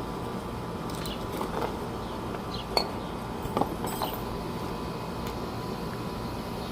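A few short metal clicks and clinks from brake parts and tools being handled, the sharpest about three seconds in, over a steady background hum.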